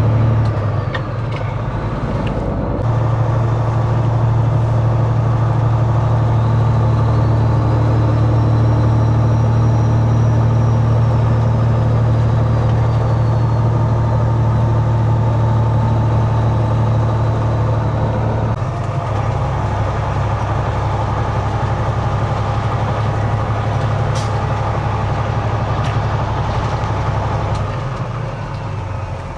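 Semi truck's diesel engine pulling steadily on the road, heard from inside the cab as a loud, even drone. Its low note shifts a few times, about three seconds in, about halfway through and near the end.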